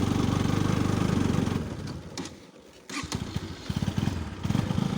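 Motorcycle engine running under load, then about two seconds in it drops away almost to quiet for nearly a second before picking up again unevenly, with irregular pulses.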